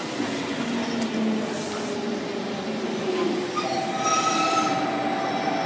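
Electric commuter train moving along the platform, its running noise joined about three and a half seconds in by a steady high-pitched squeal with several tones.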